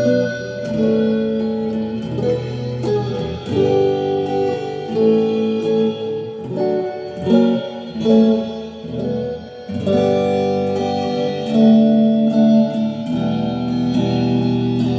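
Improvised guitar playing: picked notes and chords ringing on over each other in loose, changing phrases.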